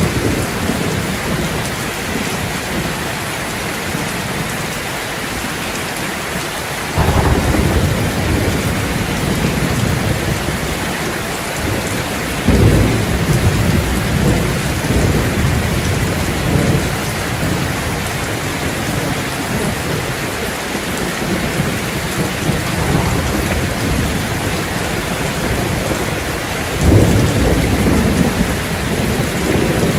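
Steady rain with a thunderstorm: an even hiss of rain, with deep rumbles of thunder that swell up suddenly about seven seconds in, again around twelve seconds, and near the end.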